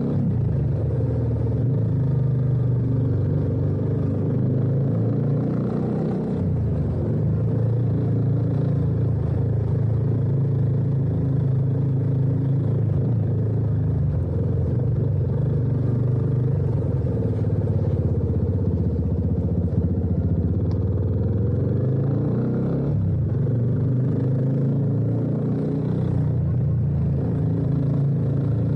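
Yamaha FZ25's single-cylinder engine running through an aftermarket Akrapovič-replica slip-on exhaust while the bike is ridden. The note rises and falls with the throttle and shifts in pitch about six seconds in.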